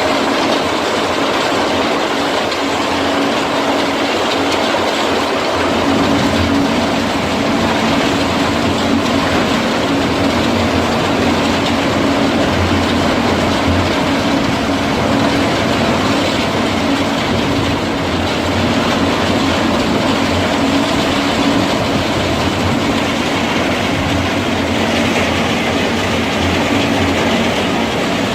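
Heavy wood chipper running steadily with a loud rushing, clattering noise over a constant engine hum; the low rumble grows heavier about six seconds in, as if material is being fed through.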